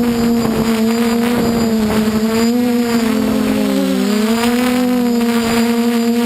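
DJI F450 quadcopter's motors and 8-inch propellers humming steadily in flight, heard close from the craft's own camera. The pitch dips and climbs again about midway as motor speed changes, with rushing noise coming and going over it.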